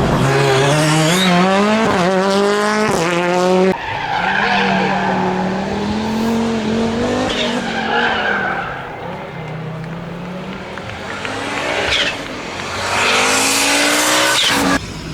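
Rally car engines accelerating hard, the pitch climbing and dropping back with each upshift, with tyre squeal as the cars slide. The sound breaks off sharply about four seconds in and again near the end.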